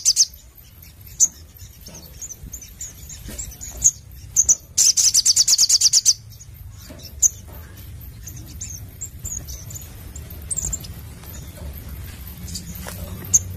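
Crimson sunbird (sogon) calling: a fast, high rattling trill of about a dozen notes a second, one ending just after the start and another lasting just over a second midway through, with scattered short, high chirps in between.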